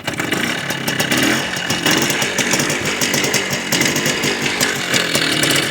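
Motorcycle engine running hard, jumping in loudness right at the start and staying loud with a rapid, buzzing firing rhythm.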